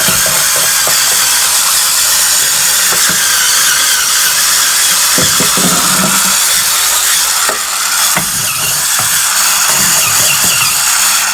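8.5-volt cordless spin scrubber running with its corner brush scrubbing a sink: a steady, loud hiss of spinning bristles over a low motor hum.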